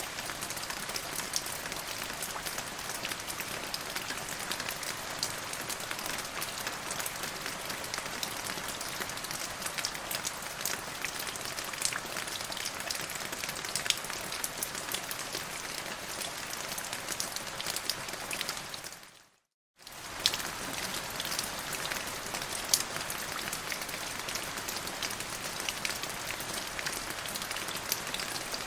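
Steady rain falling on a surface, a dense hiss with many distinct drop splats. About two-thirds of the way through it fades out to silence for under a second, then comes straight back in at the same level.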